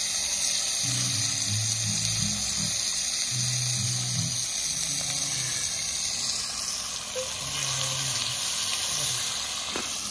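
Tiger prawns frying in hot oil, a steady sizzling hiss, with background music and a low bass line playing over it.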